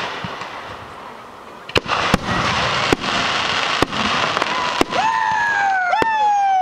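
Fireworks display: after a quieter first second and a half, sharp bangs of bursting shells come every second or so over a crackling hiss. From about five seconds in, whistling tones slide down in pitch, about one a second.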